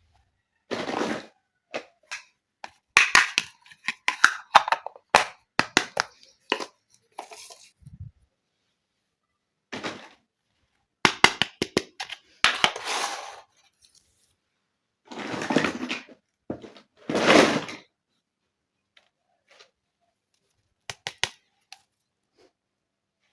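Small plastic toy kitchen pieces being handled and set down: irregular clicks and knocks, with a few brief scraping sounds and pauses in between.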